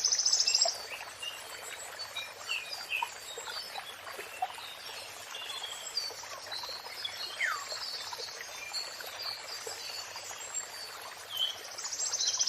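Songbirds chirping and whistling in many short notes, some falling in pitch, over a steady hiss of running water. A fast, high buzzy trill sounds in the first second and again near the end.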